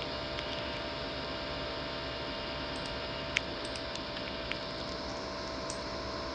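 Laptop CPU cooling fan running with a steady hum and whine, a fan that the owner says has worn out. A couple of sharp clicks cut through it, the loudest about three and a half seconds in.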